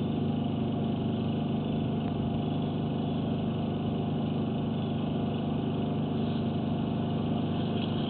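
Steady mechanical hum of an engine or motor running at an even speed, with no change in pitch or level.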